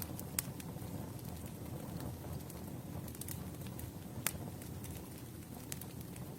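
Campfire burning with a steady low rumble and scattered sharp wood crackles and pops, the loudest a little under half a second in and again past four seconds.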